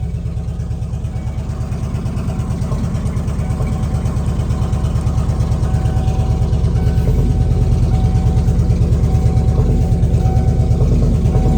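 1997 Ford F250 pickup's engine idling steadily with an even, rapid pulsing beat, freshly started off a jump pack after a dead battery.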